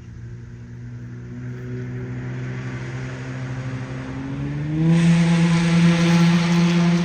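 A motor vehicle's engine speeding up, its hum slowly rising in pitch and growing louder. About five seconds in it steps up in pitch and a loud hiss of noise joins it.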